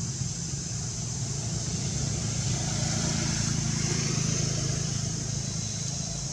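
Steady low hum of a road vehicle's engine, swelling a little in the middle as if passing, over a constant high hiss.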